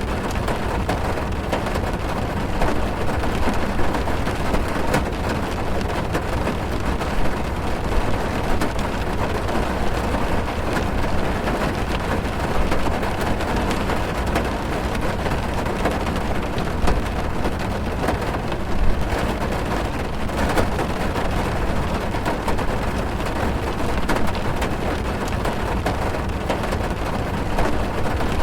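Heavy rain drumming on a car's roof and windows, heard from inside the cabin: a steady dense patter with a low rumble underneath and many small drop impacts.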